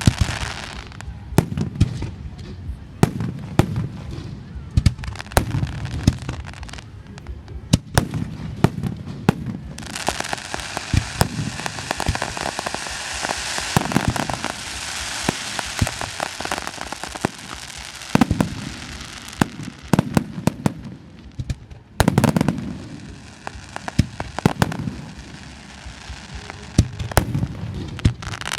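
Fireworks display: a rapid, irregular run of sharp bangs and deep booms, with a dense stretch of crackling from about ten seconds in until about seventeen seconds.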